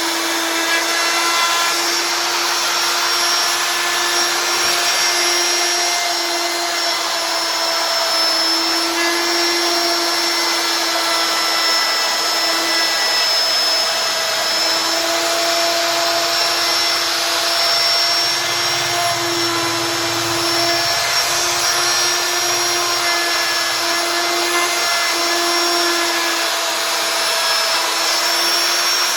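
CNC router spindle running steadily while carving wood, a sustained high motor whine over a hiss of cutting.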